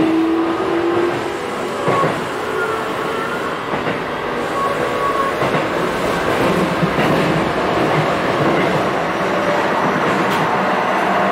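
Cabin running noise of a Hokuso 7800-series commuter train: the Toyo late-type GTO-VVVF inverter's tones are heard near the start, then a steady wheel-and-rail noise slowly grows louder, with a few sharp clicks from the track.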